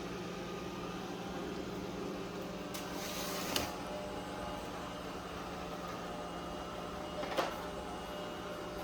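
Roborock Qrevo S robot vacuum running: a steady motor hum with several tones, broken by two brief knocks, one about three and a half seconds in after a short hiss, the other about seven seconds in.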